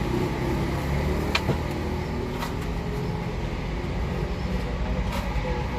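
A motor vehicle's engine running as a steady low rumble, with a few light clicks on top.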